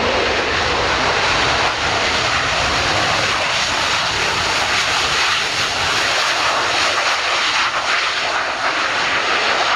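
Loud, steady jet noise from Panavia Tornado strike aircraft and their RB199 turbofan engines, a dense rushing sound strongest in the middle and upper range. The deep rumble underneath thins out about halfway through.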